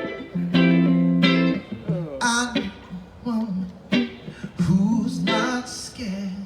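Live music: a guitar playing sustained chords as a song's intro, with a singer's wordless vocal lines gliding over it in the middle of the passage.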